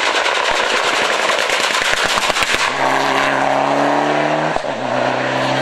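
Rally car at speed: a rapid run of exhaust crackles and bangs, then the engine held at high revs on a steady note, with a brief break about four and a half seconds in, as at a gear change, before it picks up again.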